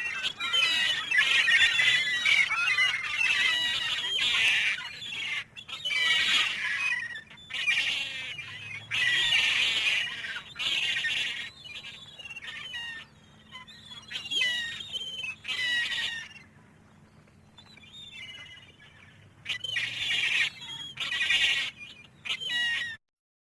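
A flock of gulls crying, many calls overlapping at once. The calls die away about two-thirds of the way through, come back briefly, then cut off suddenly near the end.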